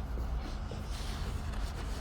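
Subway station ambience: a steady low rumble with faint scattered footsteps.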